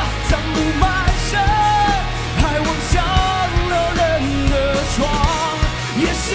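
Live rock band playing, with a singer's voice over distorted guitars, bass and a steady drum beat.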